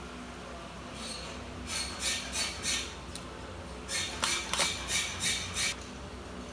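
Repeated short scraping or rubbing strokes on laptop parts, in two runs of a few strokes a second, the second run quicker and louder, over a steady low hum.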